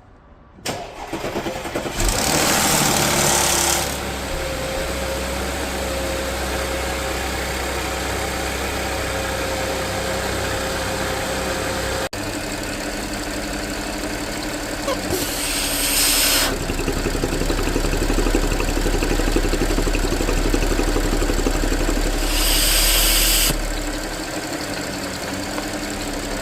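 A 3.0 TFSI supercharged V6 (engine code CTVA) starting with a harsh crackling rattle. It catches just under a second in, flares up loudly for a couple of seconds, then settles to a steady idle. Twice later it grows louder for a second or so.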